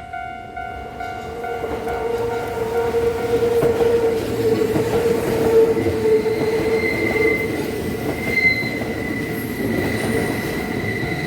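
Kintetsu 12400 series electric train passing over a level crossing while the crossing's electronic warning bell keeps pulsing. The rolling noise of the wheels builds from about a second in and is loudest mid-way. A high, steady wheel squeal sets in past the middle and holds to the end.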